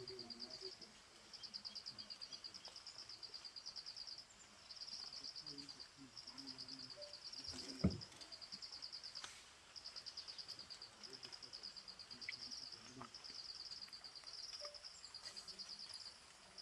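Insects chirping in the forest: high-pitched pulsed trains, each lasting a second or two with short gaps between, repeating throughout. A short low thump comes about eight seconds in.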